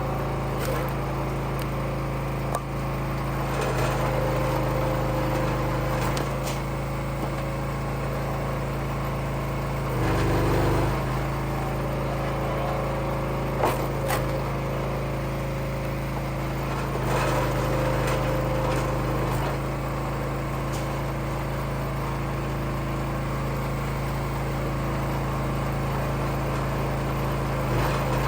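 Engine of a Wolfe Ridge firewood splitter running steadily. Its sound changes and rises briefly about ten seconds in, and a single sharp knock comes a few seconds later.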